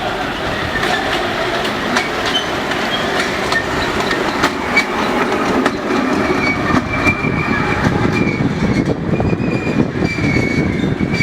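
Garden-railway miniature train running on its track, with its wheels clicking over the rail joints. A steady high wheel squeal sets in about six seconds in.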